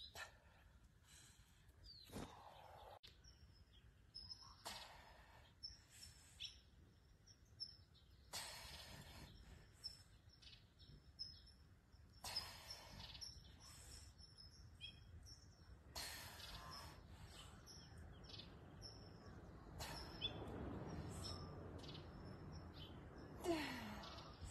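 Faint birdsong: small birds chirping on and off, with short breathy rushes of noise every few seconds and a brief falling tone near the end.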